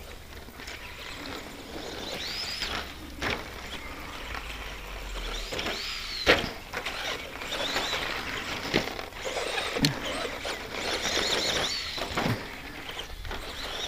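RC stadium truck's 15-turn brushed electric motor and gears whining, rising and falling in pitch with each burst of throttle, with a string of sharp knocks as the truck lands and hits bumps.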